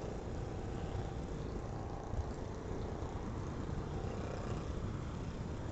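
Motorcycle riding on the road: engine running under steady wind buffeting on the rider's microphone, with the faint note of another motorcycle's exhaust fading away early on.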